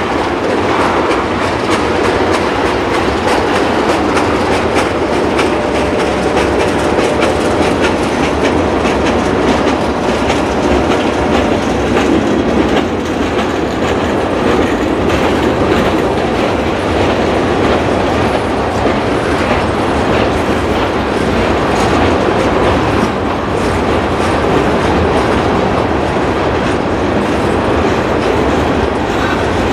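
Freight cars of a long mixed freight train, tank cars and covered hoppers, rolling steadily past: a loud, even rumble of steel wheels on the rails with constant rapid clicking.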